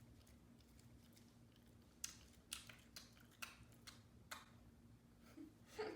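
Faint, irregular crunching clicks, about seven in a couple of seconds starting about two seconds in: a small dog, a shih tzu, chewing a treat.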